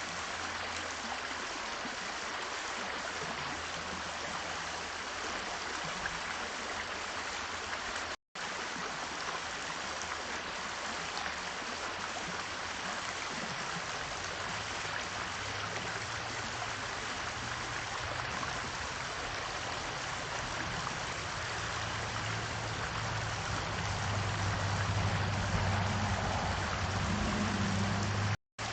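Steady rushing noise of running water, with a low hum that builds from about halfway through and is strongest near the end. The sound cuts out completely for a split second twice, about a third of the way in and just before the end.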